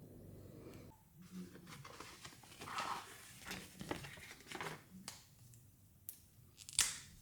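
Thin plastic wrapping crinkling and tearing in irregular bursts as a Mini Brands surprise ball is unwrapped by hand, with one sharp plastic click near the end.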